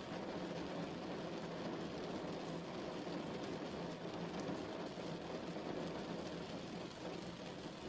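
Steady rain falling, a continuous even hiss with a low rumble beneath.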